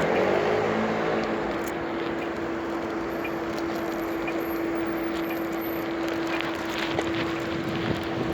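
Wind and rolling noise from riding a bicycle through city streets, with a steady mid-pitched hum that sets in about half a second in, and a few light clicks.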